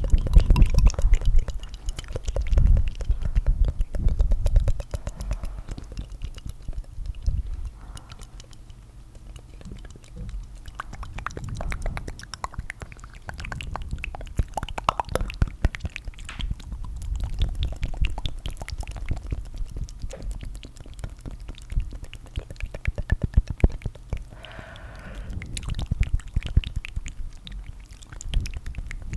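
Layered ASMR tongue fluttering close to the microphone: dense, rapid wet clicks and flutters with a deep rumble underneath, swelling and easing in uneven bursts.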